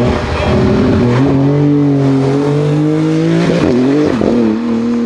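A Porsche sports car's engine under acceleration, its pitch climbing steadily for a few seconds. The note wavers briefly near the end, then holds before cutting away suddenly.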